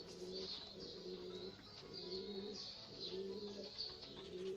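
Domestic pigeons cooing, low notes repeated over and over, with small birds chirping high above them.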